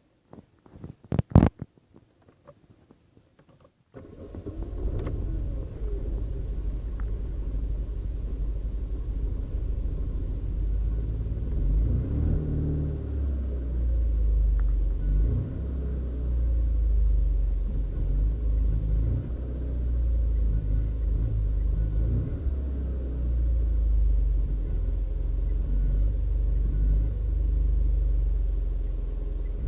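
A few sharp knocks, then about four seconds in a small 1.2-litre car engine's low rumble comes in abruptly and runs on, its speed rising and falling.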